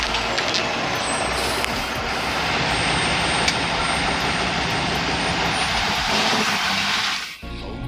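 Heavy truck running with a loud, steady rushing noise over a low engine drone; it cuts off abruptly about seven seconds in.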